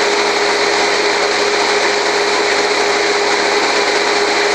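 Troy-Bilt lawn mower's Briggs & Stratton 6.75 engine running steadily at speed on its newly installed replacement carburetor during its first start-up.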